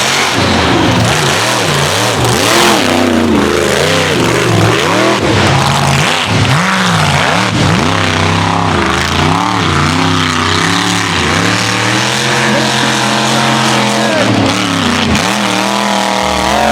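Mega truck's engine revving hard and easing off again and again as it races the mud course, its pitch swinging up and down throughout.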